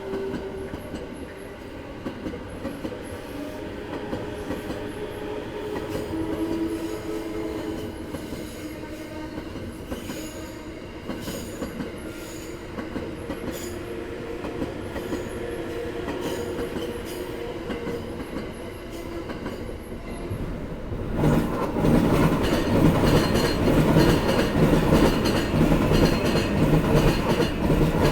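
Electric commuter trains on the Sobu Line: a moderate running and whining sound at first, then after about twenty seconds a train passes close and much louder, its wheels clattering hard over the rail joints.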